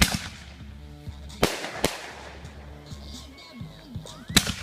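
Fireworks going off: four sharp bangs, one right at the start, two close together about a second and a half in, and the loudest near the end. Music plays in the background.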